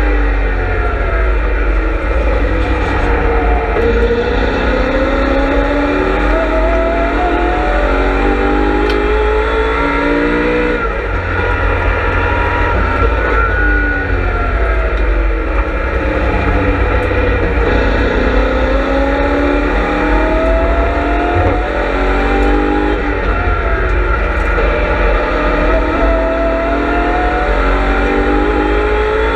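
BMW M3 E92 production race car's V8 engine heard on board at racing speed. The revs drop in steps for about the first four seconds, climb through the gears, drop again from about 11 to 17 seconds, then climb through the gears once more.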